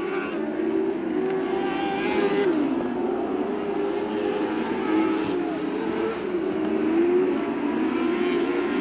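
Lightning sprint car engines racing around the oval, several engines at once, their pitch rising and falling as the cars power through the turns and down the straights.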